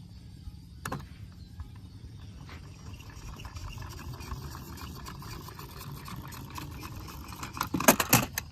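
Toy vehicles being rolled and handled: a steady low rumble with scattered clicks, a sharp click about a second in, and a quick run of loud knocks near the end.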